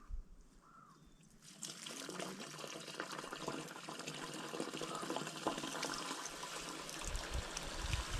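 Water pouring steadily down a septic clean-out pipe, starting about a second and a half in and building slightly, to chase root killer into the line.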